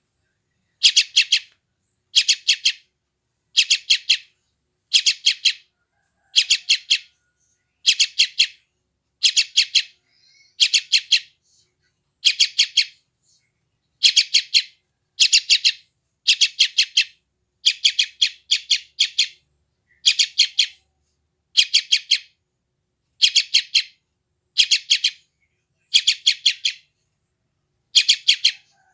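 Yellow-vented bulbul (trucukan) chick giving hungry begging calls: short bursts of rapid, high chirps, repeated about every second or so.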